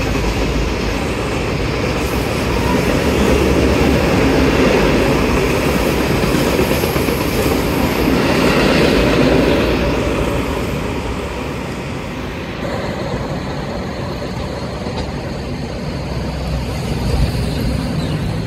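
AC local electric multiple unit train running past on the tracks: a steady rumble of wheels on rail with a hiss above it. It is loudest in the first half and grows quieter after about ten seconds as the train pulls away.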